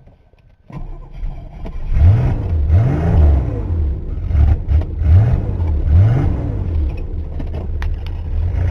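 1985 Chevy S10's carbureted 2.8-liter V6 catching suddenly about a second in and being revved up and down several times, pitch rising and falling with each blip of the throttle.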